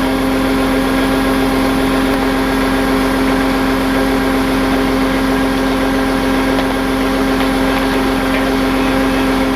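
Tow truck engine running steadily with an even, unchanging hum, as it does while powering the winch during a recovery.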